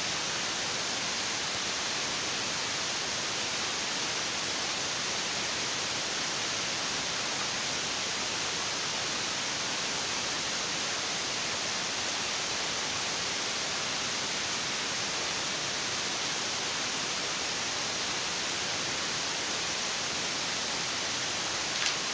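Steady, even hiss that does not change, with one brief faint click near the end.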